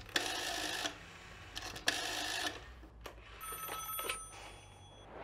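A rotary dial telephone being dialled: the dial whirs back twice, each time for just under a second, with a couple of sharp clicks of the handset and a faint steady high tone a little past three seconds in.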